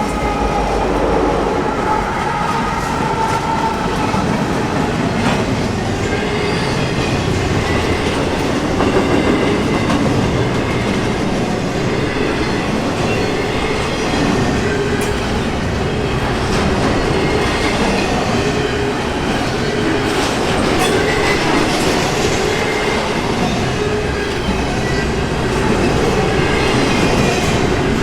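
Intermodal container freight train rolling past at trackside: a steady, loud rumble with wheel clatter over the rails, and a faint wheel squeal running under it.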